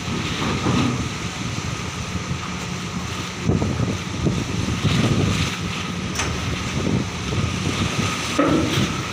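Heavy diesel trucks driving off a ferry, their engines running and swelling a few times, over a steady hum, with wind buffeting the microphone.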